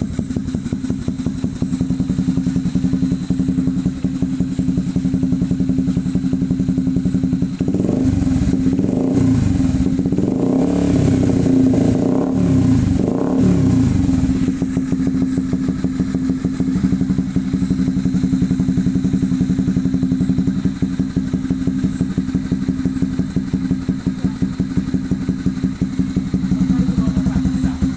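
Honda CB150R's single-cylinder engine through a replica SC Project aftermarket exhaust, idling steadily. It is revved up and let fall several times in quick succession from about eight to fourteen seconds in, then drops back to idle.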